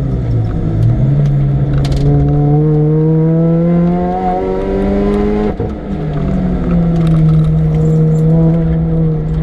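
Supercharged Mini Cooper R53's four-cylinder engine under hard acceleration, revs climbing steadily. The revs drop suddenly about five and a half seconds in as it changes up a gear, then climb again.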